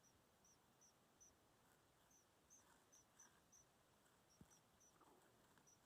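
Near silence with faint, short high-pitched cricket chirps, about two to three a second, in runs broken by brief pauses.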